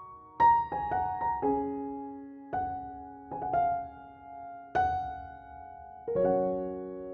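Slow, gentle piano background music: single notes and chords struck and left to ring and fade.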